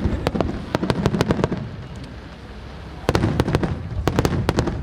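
Aerial fireworks bursting: rapid volleys of sharp cracks over a low booming rumble. One volley comes at the start and another about three seconds in, with a lull between them.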